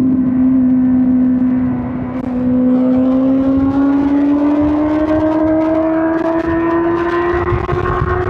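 2005 Suzuki GSX-R1000 K5's inline-four engine pulling under throttle, its note climbing slowly and steadily. The engine eases off briefly about two seconds in, then keeps building.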